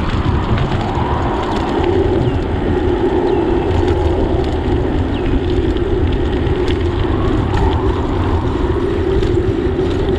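Steady wind and road noise from riding a bicycle, heaviest in the low rumble, with a few faint clicks.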